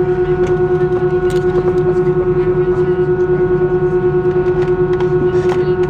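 Airbus A320 cabin drone from its engines and air systems, heard inside the cabin: a steady hum with a constant tone that pulses evenly about six times a second.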